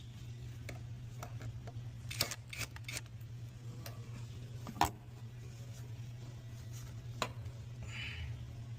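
A steady low hum, with a handful of sharp clicks and light knocks scattered over it.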